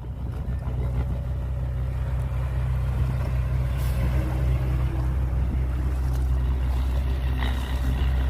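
Heavy construction machine's diesel engine running steadily with a deep drone, getting louder in the first second or so.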